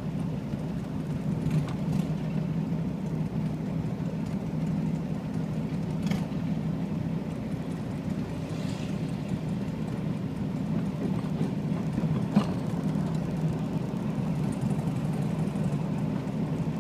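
Vehicle engine running steadily at low revs, with a few brief clicks along the way.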